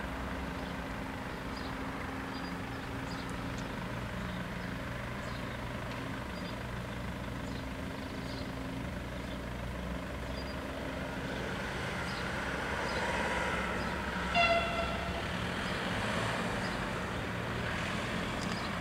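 TER regional train approaching and passing the level crossing with a rising rumble in the second half, and a single short horn toot about two-thirds of the way through. A low steady hum and faint regular ticking run underneath.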